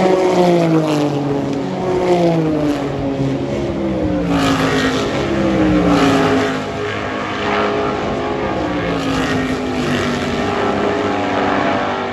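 Race car engines on a circuit. One car's note falls and jumps back up in steps, several times over, as it brakes and changes down through the gears, with other cars running past.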